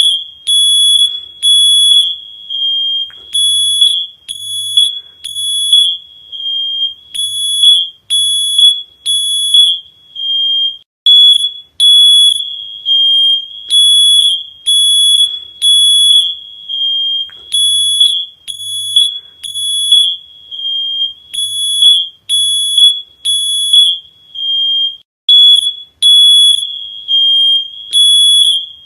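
Smoke alarm sounding: loud, high-pitched beeps in repeating groups of three with a short pause between groups, the emergency pattern of a fire alarm.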